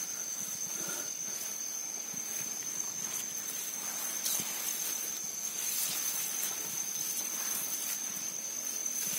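Insects trilling in one steady, high-pitched, unbroken tone. Faint scattered clicks and rustles come from movement through the undergrowth.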